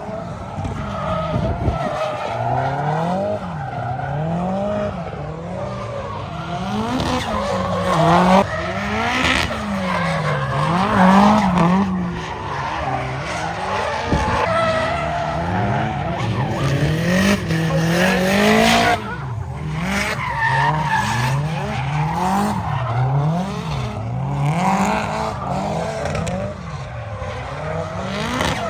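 Drift cars sliding on track: the engine note climbs and drops about once a second as the throttle is worked through the slides, over the squeal of spinning tyres.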